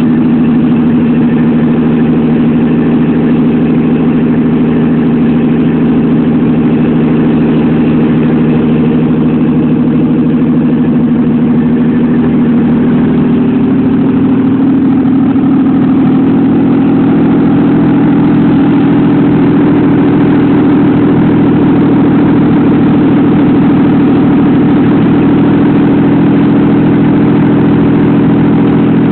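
Supercharged GM 3800 V6 engine idling steadily. Its idle speed rises slightly about halfway through.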